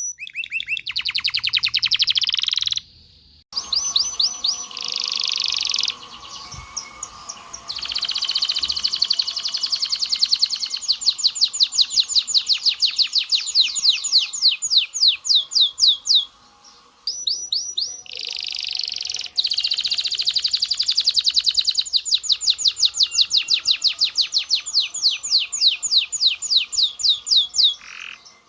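Domestic canary singing: long fast trills of rapidly repeated high notes, broken by a few short pauses.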